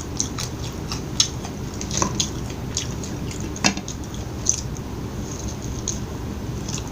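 Close-miked eating of fast food: quiet chewing with scattered small clicks and crackles at irregular intervals.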